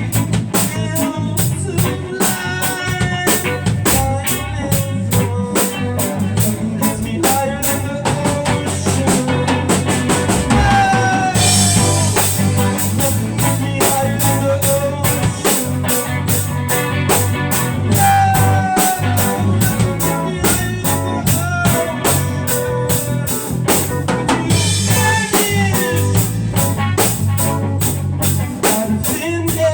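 Band music: a drum kit keeps a steady beat with snare and bass drum over a low bass line, while a melody slides between notes above it.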